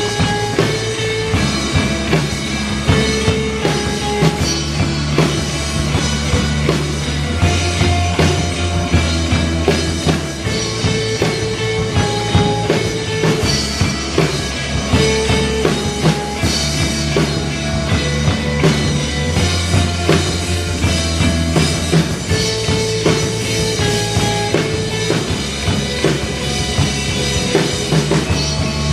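Rock band playing live, an instrumental passage with no singing: a drum kit keeping a steady beat under a bass line and guitars.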